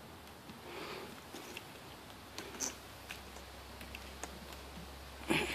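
Faint rustling and a few small ticks of hands handling wires and plastic connectors on a headlamp assembly, with a short louder noise near the end.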